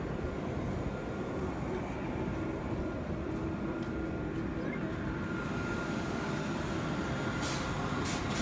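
Steady rumbling cabin noise of an airliner on the ground after landing, with a faint steady hum running under it.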